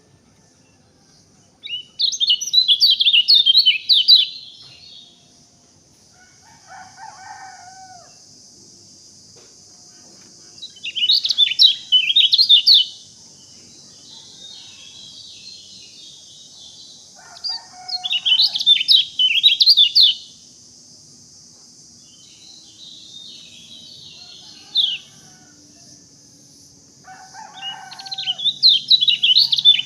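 A songbird singing loud bursts of rapid, high chirping notes, repeated about every seven to eight seconds, with a few shorter, lower calls in between.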